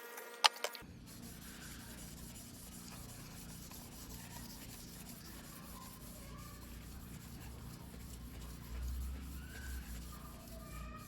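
Steel knife blade being rubbed back and forth on a whetstone during hand sharpening, a faint steady scraping, with a sharp click about half a second in.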